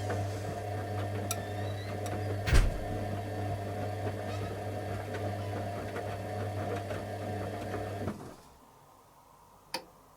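Candy Aquamatic 100F washing machine's motor turning the drum in the heated wash stage: a steady mechanical hum, with one thump about two and a half seconds in. The motor cuts off suddenly about eight seconds in, leaving the drum at rest, and two sharp clicks follow near the end.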